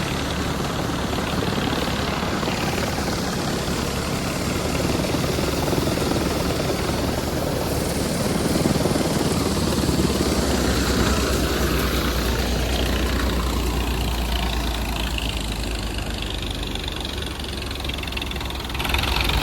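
Swaraj tractor's diesel engine running hard at full throttle, driving a thresher through wet crop, with the thresher's steady mechanical noise over the engine. The engine note deepens and strengthens about halfway through as it lugs under the heavy load, but it keeps running without stalling.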